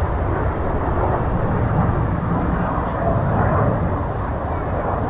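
BAE Hawk T1 jet trainers of the Red Arrows flying their display: a steady jet-engine rumble.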